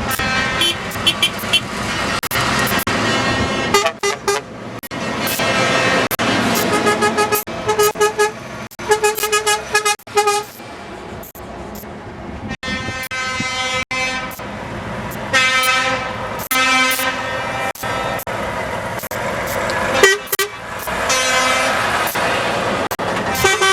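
Truck air horns honking again and again: short toots and longer blasts of a second or two, often several horns sounding together, over the steady noise of passing trucks.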